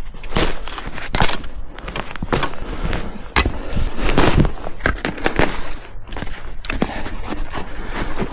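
Irregular crunches and scrapes in snow, several a second, over a steady low rumble of wind on the microphone.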